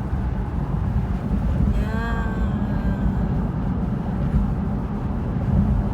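Steady low road rumble of a car driving on the highway, heard from inside the cabin: engine and tyre noise. A short voice sound comes about two seconds in.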